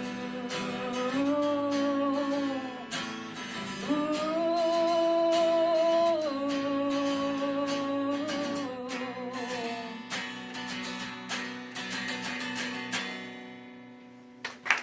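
Strummed acoustic guitar with a female voice holding three long sung notes, closing out a slow song; the playing thins and fades away near the end.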